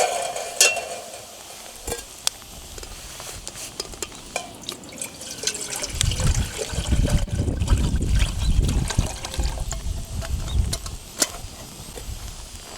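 Wind rumbling on the microphone for about five seconds in the middle, over scattered clicks and light knocks of cookware being set on a campfire grill in a blizzard.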